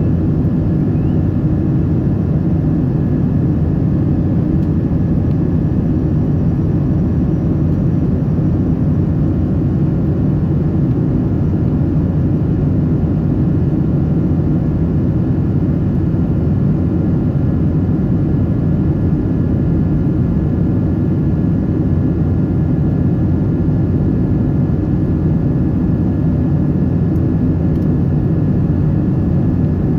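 Steady in-cabin jet noise of a Boeing 777-300: an even, low rush of engine and airflow that does not change.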